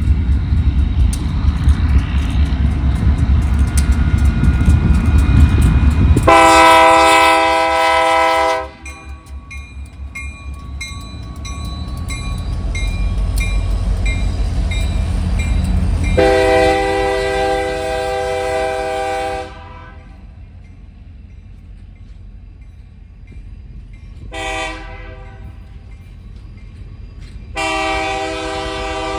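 Diesel locomotive's multi-chime air horn blowing the grade-crossing signal: two long blasts, a short one, then a long one starting near the end. A heavy low rumble of the train fills the first six seconds and swells again between the blasts.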